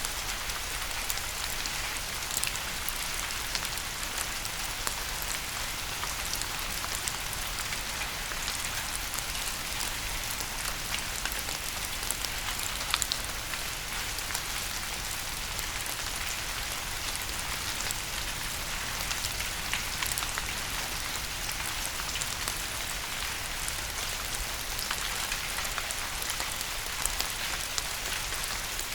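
Steady rain falling: a constant hiss with frequent sharp ticks of single drops.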